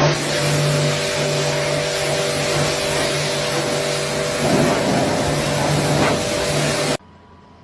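Loud, steady machine noise: a motor running with a steady hum under a hiss, which cuts off suddenly about seven seconds in.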